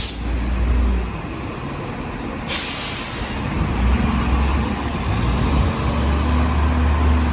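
City transit bus idling with a low diesel rumble, and a sharp air-brake hiss about two and a half seconds in that fades over about a second.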